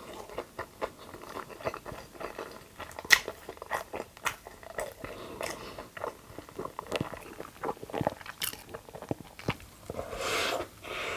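Close-up chewing of a mouthful of burger, with many short wet mouth clicks and smacks, then a bite into a burger about ten seconds in.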